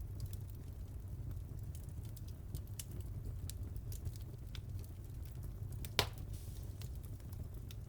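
Fireplace fire crackling over a steady low rumble, with scattered small crackles and one louder pop about six seconds in.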